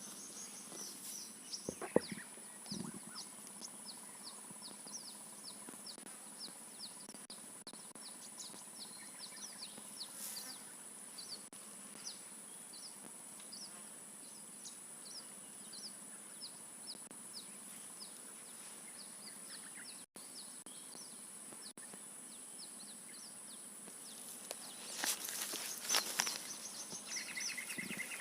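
Outdoor ambience of insects and birds: a steady high-pitched insect drone under a rapid, even run of short high chirps. A couple of sharp knocks about two seconds in, and louder crackling or rustling with a short repeated bird call near the end.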